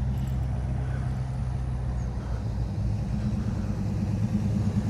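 Motor vehicle engine running at low speed as it cruises past, a steady low sound that grows a little louder near the end.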